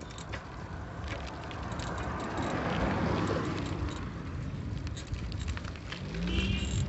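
A car passing, its road noise swelling and fading about halfway through, over the ticking and rattling of a bicycle being ridden. A brief pitched sound comes near the end.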